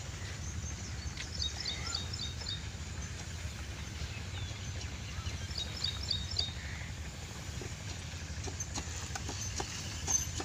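Open-field ambience: a steady low rumble, with a small bird singing a short phrase of quick high chirps twice, about a second and a half in and about six seconds in, and a few soft clicks near the end.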